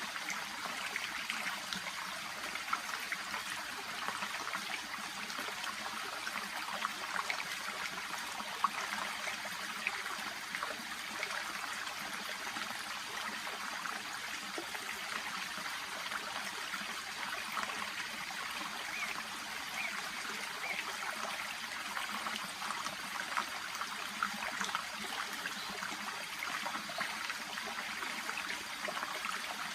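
Shallow brook babbling steadily, water trickling and splashing over the stream bed.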